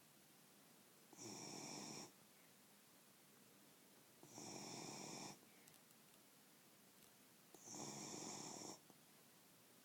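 Beagle snoring in its sleep: three snores, each about a second long, coming about every three seconds, with quiet breathing between them.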